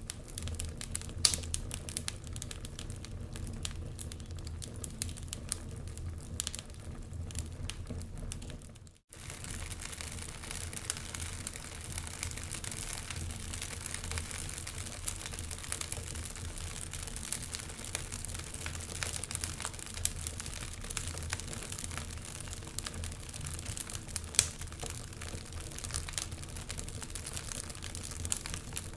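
Wood fire crackling in a fireplace: a dense, steady run of small pops and snaps with a few louder pops, over a low hum. The sound dips and cuts out for an instant about nine seconds in, then carries on.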